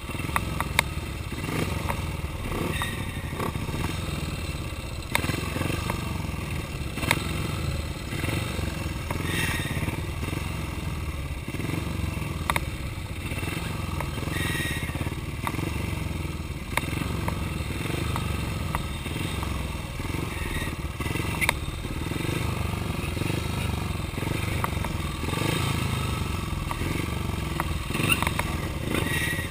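Speedway motorcycle's 500 cc single-cylinder engine running steadily at low revs as the bike rolls slowly around the dirt track, with a few sharp clicks and rattles along the way.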